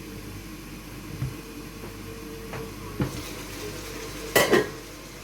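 Cooking clatter: a couple of soft knocks, then a loud, sharp double clank of cookware about four seconds in.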